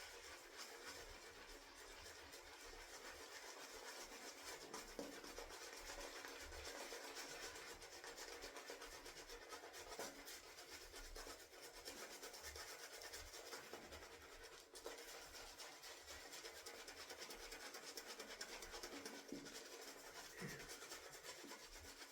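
A shaving brush whipping and swirling shaving soap lather, a faint, continuous wet swishing with a quick, even rhythm. The lather is being worked after added water and is thickening up.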